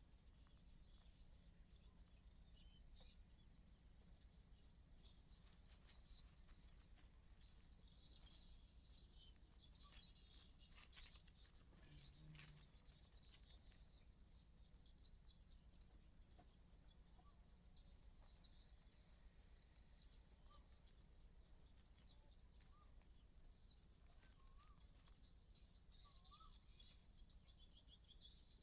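A small bird chirping: short, sharp, high-pitched chirps about once a second, coming louder and quicker in a run a little past two-thirds through, over a faint high hiss.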